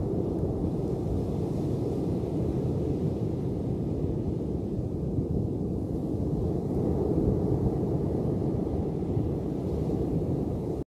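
Ocean surf as a steady low rumble, swelling a little now and then and cutting off suddenly near the end.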